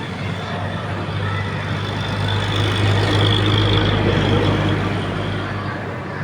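Heavy diesel engine running steadily, getting louder through the middle as it takes load, with a high whine joining it at its loudest.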